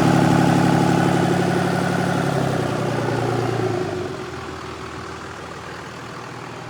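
Freshly rebuilt 24-valve Cummins 5.9-litre straight-six turbodiesel running steadily on its first run after the rebuild. About four seconds in, its deep engine note drops away and the sound falls to a quieter, even noise.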